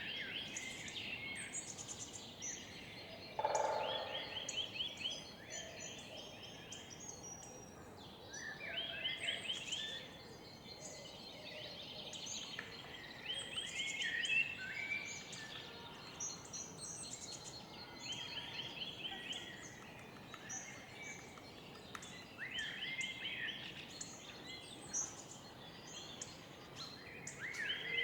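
Songbirds singing. One bird repeats a short phrase of quick rising notes every four or five seconds, while other birds chirp higher up. A lower call comes about three and a half seconds in, all over a steady hum of background noise.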